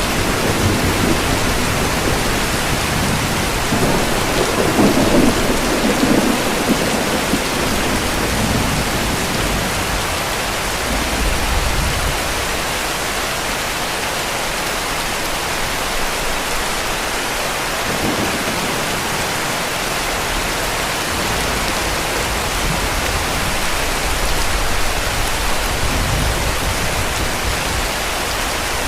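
Heavy rain falling steadily, with low distant thunder rolling in the background. The rumble swells about four seconds in and again near the end.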